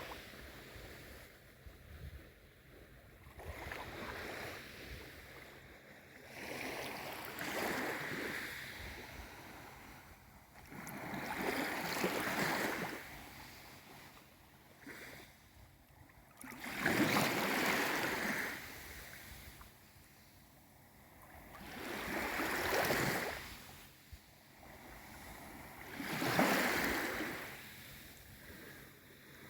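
Small waves of a calm sea washing in one after another, each a rushing swell that rises and dies away, about every four to five seconds.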